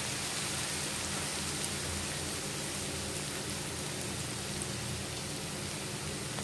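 Chopped ginger and garlic sizzling steadily in hot oil in a kadhai.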